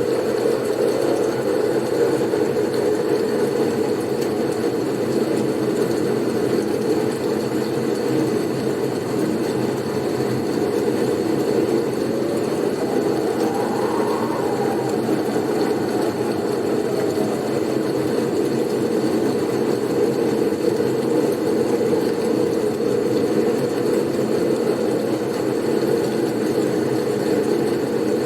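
Blizzard wind blowing steadily with a deep rushing rumble; about halfway through, a gust whistles up in pitch and falls away again.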